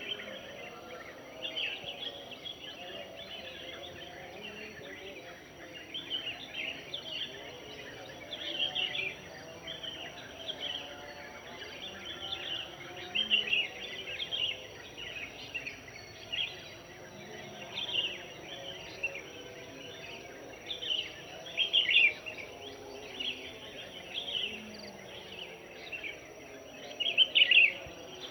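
Several birds singing: short clusters of high chirps every second or two, some louder than others, over a steady background hiss and a thin high whine.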